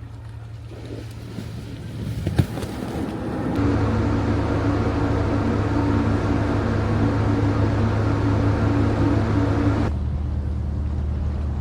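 Steady low mechanical drone, like an engine running, with a single sharp knock about two and a half seconds in. The drone gets louder and changes character abruptly about three and a half seconds in, then changes again near the end.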